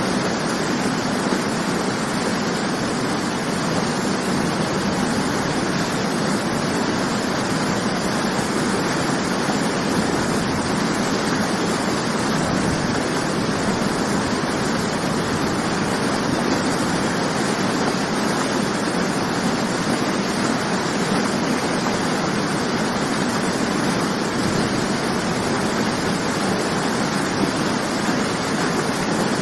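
Waterfall: water falling and crashing in a steady, even rush with no breaks.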